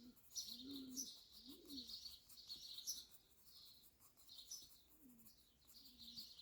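Faint birdsong: small birds chirping high and repeatedly, with a dove cooing low in short repeated phrases.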